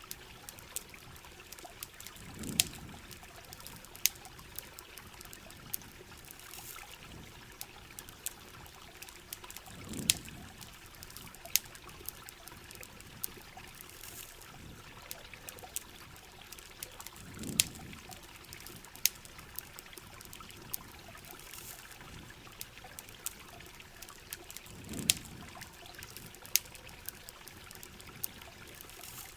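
Steady heavy rain falling and trickling, with sharp ticks and crackles scattered throughout and a soft low swell about every seven and a half seconds.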